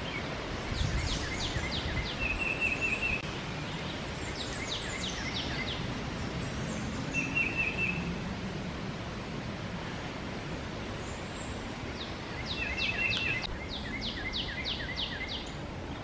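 Songbirds singing in woodland: one repeats a run of about seven to nine sharp, quickly falling notes, three times, and another gives short rapid trills, over a steady low background rush.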